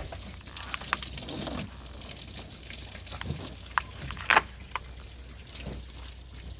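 Liquid sloshing and trickling during kitchen work, with four sharp clinks or knocks, the loudest a little past halfway.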